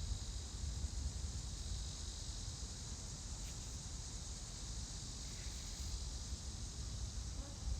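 Steady outdoor insect chorus, a continuous high chirring that does not change, over a low rumble of wind on the microphone.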